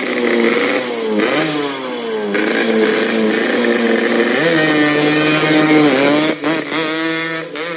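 Yamaha RX-King two-stroke single-cylinder motorcycle engine running through its exhaust, revved up and back down several times, about a second in, again past four seconds, and near six seconds.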